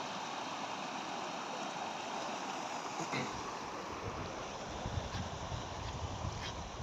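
Steady rushing of a fast-flowing, rain-fed seasonal river. About two-thirds of the way through an uneven low rumble joins in.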